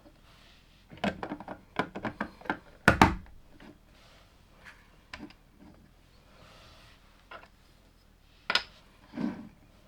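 Plastic LEGO bricks clicking and clattering as they are handled and pressed together. A quick run of small clicks comes about a second in, then a louder knock, and two more knocks near the end.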